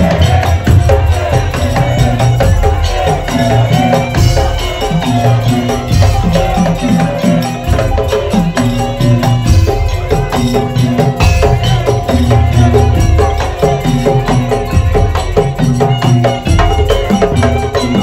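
Madurese daul (tong-tong) music: a dense, driving beat of bamboo and wooden slit drums, drums and jingles under a repeating melodic figure.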